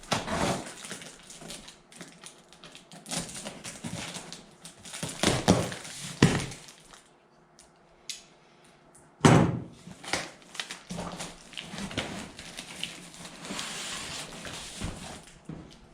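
Cardboard shipping box being handled and opened by hand: irregular scraping, rustling and knocking of cardboard, with a loud thump about nine seconds in.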